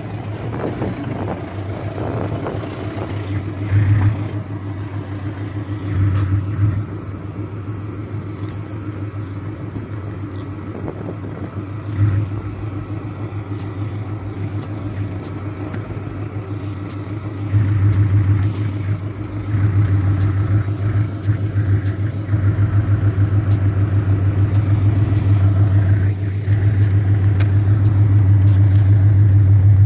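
A car engine running steadily, with short revs about 4, 6 and 12 seconds in and again around 18 seconds, growing louder over the last ten seconds.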